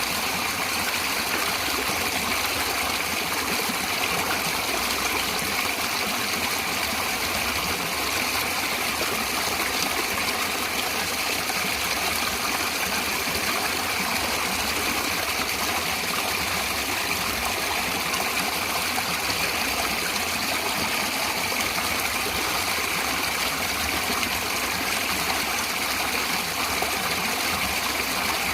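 Running water in a natural stream, flowing steadily as an even, continuous rush.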